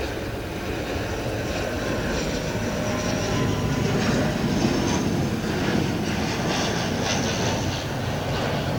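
Airliner passing close, its engine roar building to a peak about halfway through and easing a little near the end, with a faint steady whine over it.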